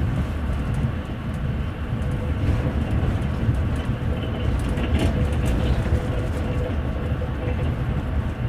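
Steady rumble and rattle of a moving passenger train heard from inside a double-decker coach, its wheels rolling on the rails, with a brief tick about five seconds in.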